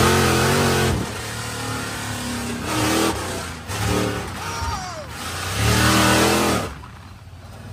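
Dirt bike engines revving and passing by in several surges, the pitch rising and falling; it goes quieter near the end.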